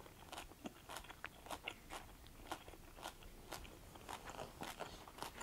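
A person chewing a mouthful of crunchy stir-fry made of spiralized kohlrabi noodles, julienned carrots and bean sprouts, picked up close by a clip-on microphone. The crunches are faint and crisp, coming a few a second at an uneven pace.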